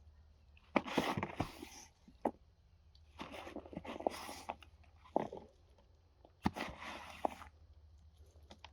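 Compost in a worm bin being turned over: about four bursts of rustling and scraping as leaves and moist, broken-down material are shifted, with quiet gaps between.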